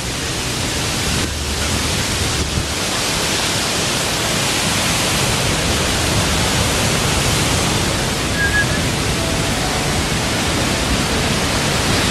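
Man-made waterfall: a steady rush of falling water that grows somewhat louder over the first few seconds, then holds.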